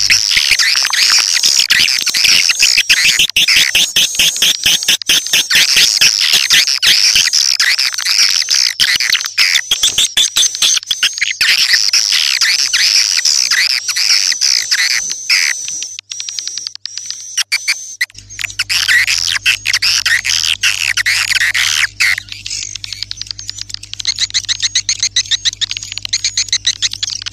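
Swiftlet call recording: loud, dense, continuous twittering and chirping of many swiftlets, used as a lure to call swiftlets in. The chirping thins out briefly about two-thirds of the way through, and a low steady hum comes in under it from then on.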